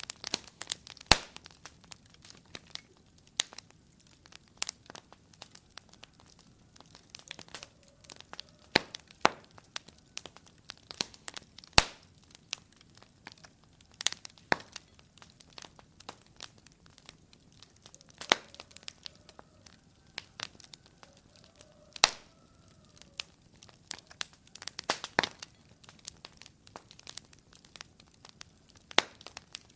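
Fire crackling in a fireplace: a steady scatter of small irregular snaps with a few louder pops, and a faint thin whistle now and then.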